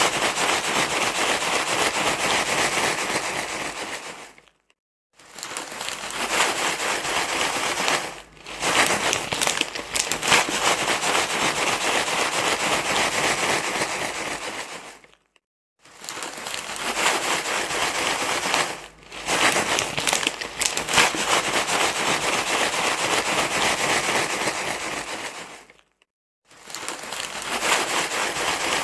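Continuous crinkling, rustling noise, like material being crumpled, played as a baby-soothing sound. It drops out to silence for about half a second three times, evenly spaced, with a shorter dip a few seconds after each: the same stretch repeating as a loop.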